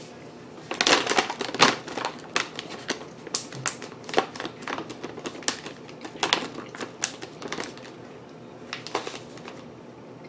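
Crunching of dark-chocolate-covered coconut almonds being chewed: a run of sharp, irregular crunches starting about a second in and thinning out near the end.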